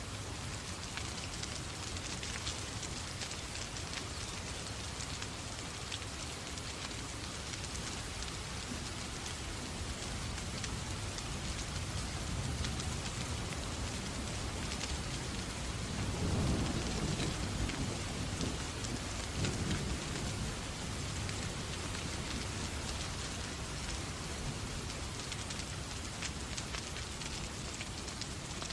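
Steady rain falling, with a low rumble of thunder swelling up a little past the middle and fading again.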